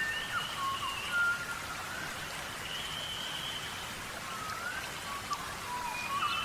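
Small birds calling with short thin whistles, some level and some sliding up or down, over a steady rain-like pattering hiss of sand being flicked about as they dust-bathe.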